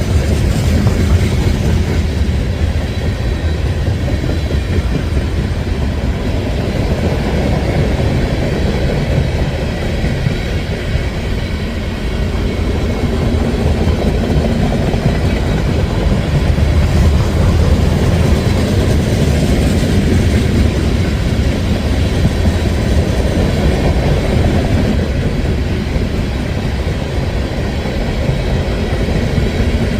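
Freight cars of a passing train rolling by, a steady rumble with wheels clacking over the rail joints.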